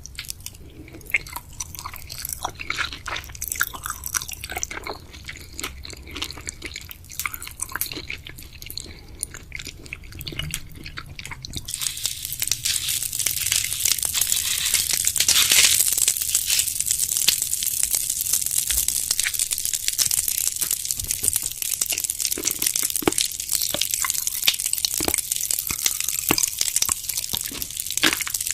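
Close-miked eating of jelly and gummy candies: wet chewing and biting with sticky clicks, which about twelve seconds in gives way to a louder, dense, continuous crackling.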